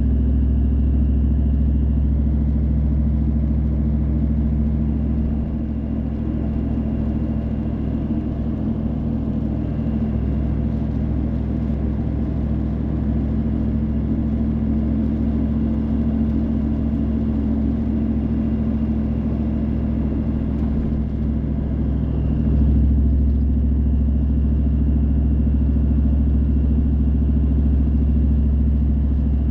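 A car being driven, its engine and tyre noise making a steady low hum. The hum eases a little about five seconds in and grows louder again about 22 seconds in.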